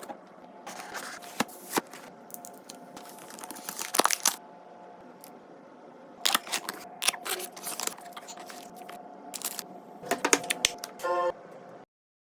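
Packaging being torn open and handled: an irregular run of tearing, crinkling and clicking, with a short pitched sound near the end before the sound cuts off suddenly.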